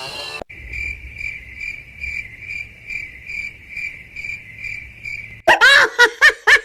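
Cricket chirping, the stock 'awkward silence' sound effect: an even, high chirp repeating about three times a second. Near the end it is cut off by loud, high voice sounds.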